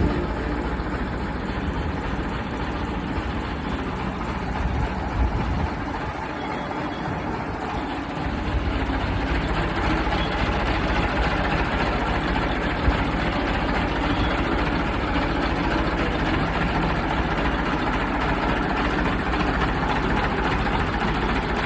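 Hindustan tractor's diesel engine running steadily, a little louder from about eight seconds in.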